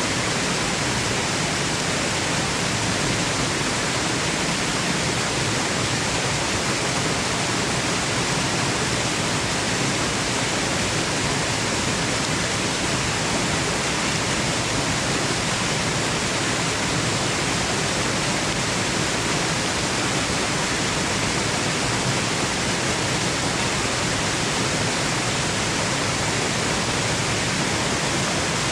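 Waterfall noise: a steady, even rush of falling water with no changes.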